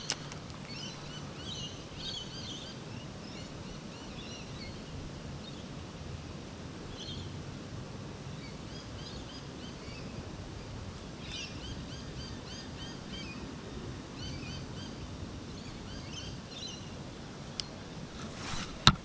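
Small birds chirping, short runs of high calls coming and going over a steady outdoor background hum. Two sharp clicks near the end.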